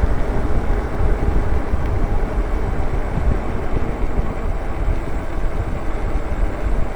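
Wind buffeting the microphone and tyre noise from an e-bike ridden fast on a paved road, a steady, gusty rush with no break.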